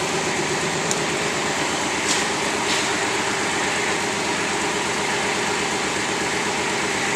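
Kubota KX41 mini excavator's 20 hp three-cylinder liquid-cooled diesel running steadily at idle while the machine swings, with a few faint clicks.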